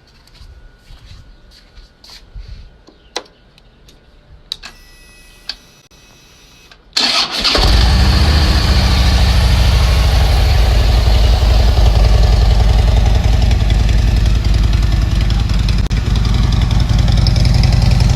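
Harley-Davidson Road King's V-twin engine being started through an aftermarket slip-on exhaust: a few clicks and a brief whine, then about seven seconds in it cranks, catches and settles into a loud, steady idle.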